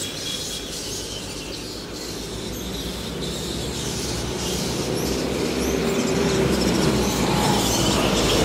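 A roosting colony of Indian flying foxes screeching and chattering in a dense, continuous din of high squeals. A low rumble builds and grows louder over the second half.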